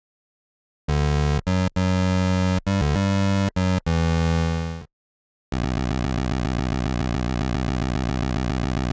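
Synthesized, chiptune-style electronic tones: a low buzzy note broken by short gaps, then after a brief silence one steady buzzing tone with a fast, regular flutter.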